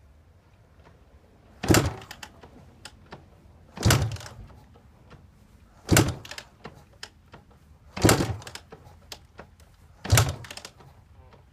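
Suzuki LT250R two-stroke single being kick-started from cold: five heavy kicks on the kick-start lever about two seconds apart, each a loud thud with a short rattle after it. The engine does not catch.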